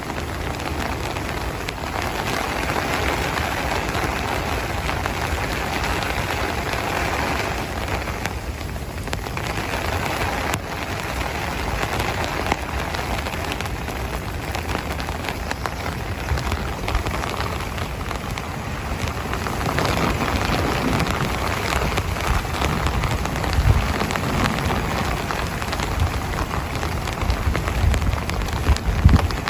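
Heavy rain falling steadily, a dense hiss that eases briefly about a third of the way in, with a few low thumps near the end.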